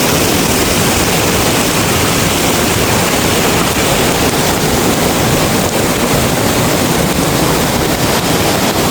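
Loud, steady rush of water that does not let up.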